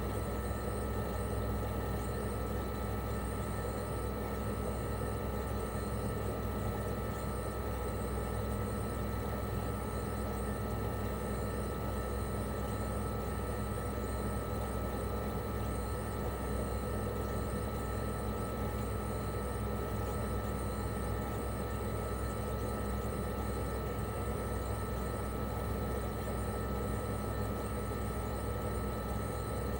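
1997 Toshiba RAS-285BAD outdoor unit running steadily in cooling mode. Its twin-rotary inverter compressor and propeller fan make a low hum with a thin, steady high whine over it.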